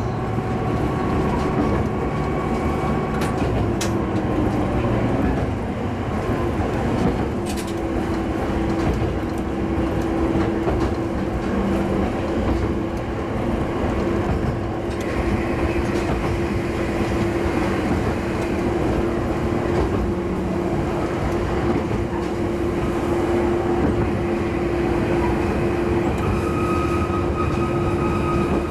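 Diesel railcar running between stations, with engine and wheels on the rails. There are a few clicks of wheels over rail joints early on, and a steady hum sets in about a quarter of the way through.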